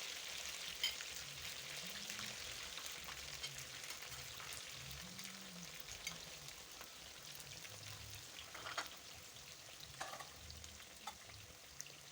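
Potato wedges, already boiled, deep-frying in hot oil: a steady sizzle with scattered sharp crackles, slowly easing off.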